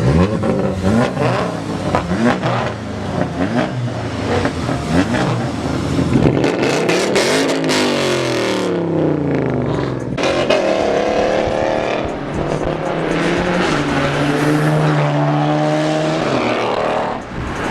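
Car engine under acceleration, its pitch rising through the revs and dropping again several times, as at gear changes.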